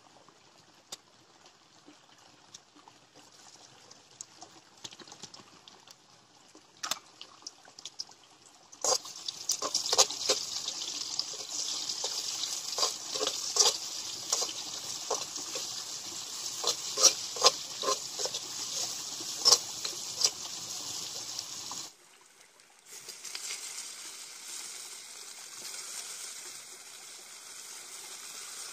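Sliced onion and garlic frying in hot oil in a steel kadai. The sizzle starts loud with many sharp crackles and spits about nine seconds in, then settles to a steadier, quieter sizzle after a break near the end.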